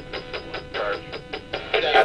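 Ghost box (spirit box) sweeping through radio stations: a rapid choppy stream of static bursts, about five or six a second, broken by split-second fragments of broadcast music and voices.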